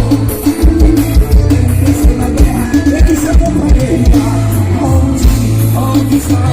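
Live gospel band playing an upbeat song, with a steady, fast kick-drum beat under a sustained bass line.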